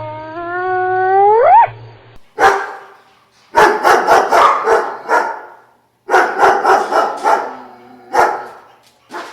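A single pitched call rising sharply in pitch, then a dog barking in quick runs of rapid barks with short gaps between them.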